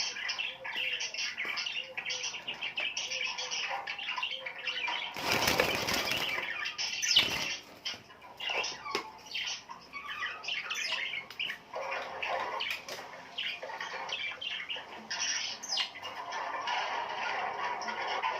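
A chorus of small birds chirping and twittering. About five seconds in there is a noisy rush of about a second and a half, like wings flapping as a bird takes off, followed by a brief sharp flutter.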